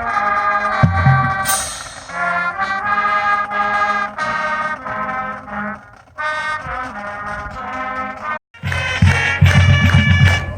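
Marching band brass playing held chords. After a sudden short break near the end, a louder passage comes in with a heavy, steady drum beat under the horns.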